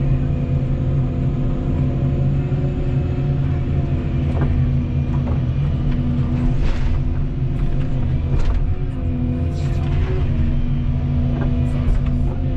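Volvo 235EL excavator's diesel engine running steadily at working revs, with scattered sharp knocks and cracks over it from about a third of the way in.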